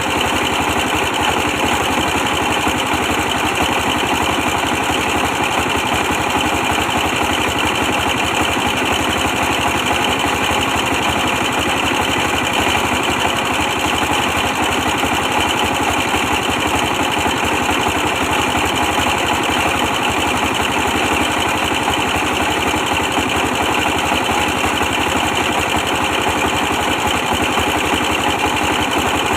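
Old 24 hp diesel engine running steadily at a constant speed, driving a brick press.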